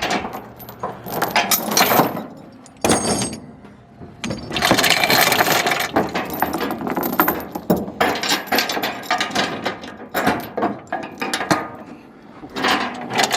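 Metal objects clinking and rattling in irregular bursts, with short pauses around three and four seconds in and again near the end.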